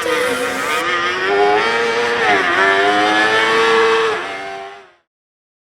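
Formula Student race car running on track, its pitch dropping and climbing again a few times as it revs up and down, then fading out near the end.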